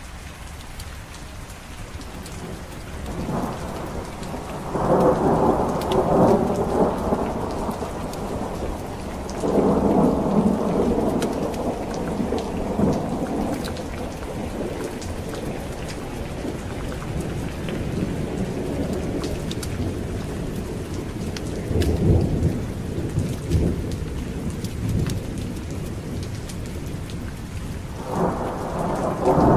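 Steady rain with rolling thunder that rumbles up several times, loudest about five and ten seconds in, again around twenty-two seconds, and building near the end.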